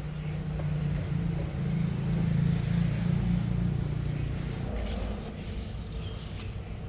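A motor vehicle's engine running with a steady low drone that swells for a few seconds in the middle, then eases off.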